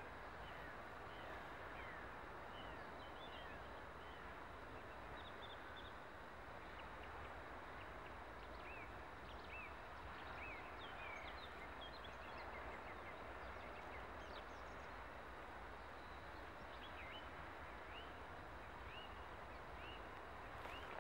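Small birds chirping repeatedly in short, quick calls over a steady low rumble and hiss of outdoor background noise.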